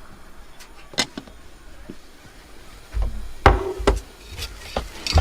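A handful of irregular knocks and thumps, like hard objects being set down or striking wood. There is a sharp one about a second in, then a heavier cluster of thuds around three to four seconds in.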